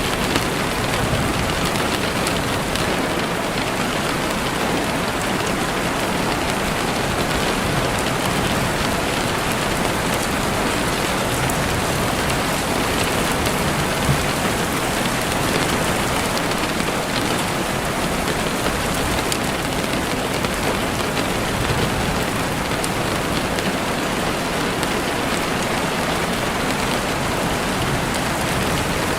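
Steady rain falling on leaves and the ground, with occasional sharp pops of a crackling campfire, the loudest about halfway through.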